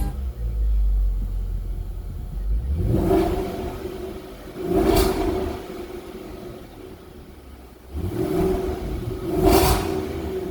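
2020 Jaguar F-Pace SVR's supercharged V8 with its exhaust flaps open: a steady low idle rumble, then two throttle blips, each rising to a loud peak and falling back to idle, about five and nine and a half seconds in.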